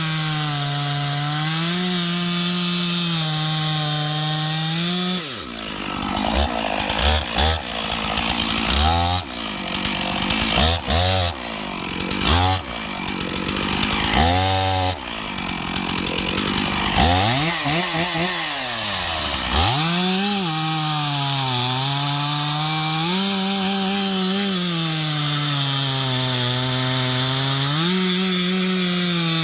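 Stihl 461 two-stroke chainsaw cutting ash at high revs. From about five seconds in, the engine note drops and rises repeatedly for some fifteen seconds as the throttle is let off and blipped. About twenty seconds in it settles back to a steady high rev.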